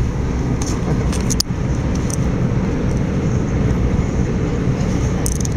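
Electrostar electric train running at speed, a steady rumble of wheels and running gear heard inside the carriage, with a few brief sharp clicks.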